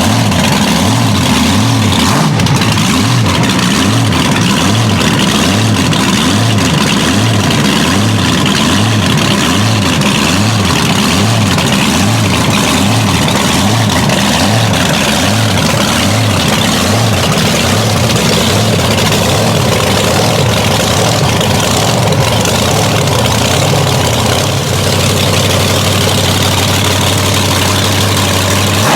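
Supercharged big-block V8 engine of a mega truck idling loudly with a slow, rhythmic surge a little over once a second, settling to a steadier idle near the end.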